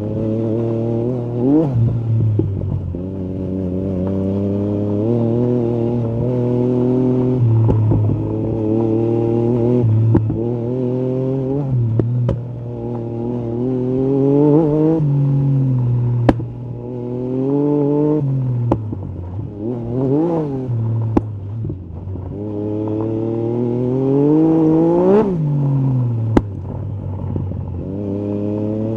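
Yamaha MT-09 SP's three-cylinder engine through an Akrapovic carbon exhaust with the dB killer removed. The engine note rises and falls repeatedly as the throttle is opened and closed, with several quick revs and a couple of sharp cracks in the second half.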